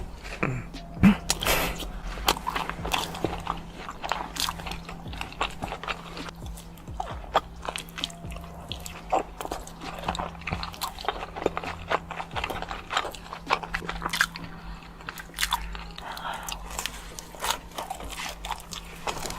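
A person eating, mukbang style: repeated bites and chewing with crunching, a stream of short mouth clicks and crackles.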